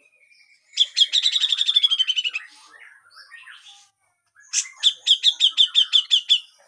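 Grey-cheeked bulbul (cucak jenggot) calling: two loud runs of rapid, evenly repeated high notes, the first sliding slightly down in pitch, the second about two seconds later holding one pitch.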